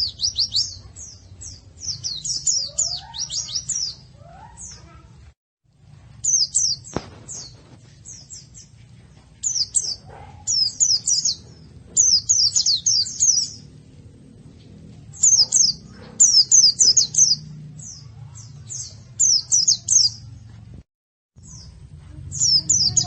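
Pleci (white-eye) song: bursts of rapid, high twittering notes, each burst lasting a second or two and coming again every few seconds, over a faint low hum.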